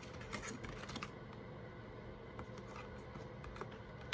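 Soft scattered clicks and light taps of tarot cards being handled on a table, over a faint room hum.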